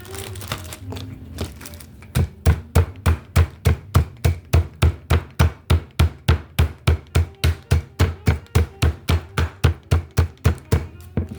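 Raw chicken breast in a plastic bag being pounded flat with steady, even blows, about three a second, starting about two seconds in.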